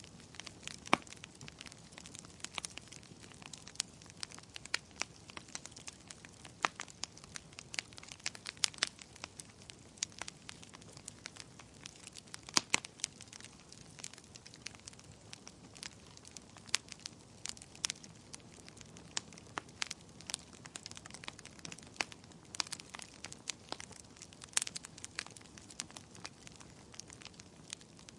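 Wood fire crackling: frequent sharp, irregular pops and snaps over a faint steady hiss of burning.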